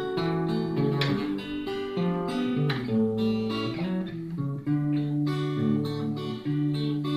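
Acoustic guitar playing a strummed and plucked chord introduction, chords struck about every half second and changing every second or so.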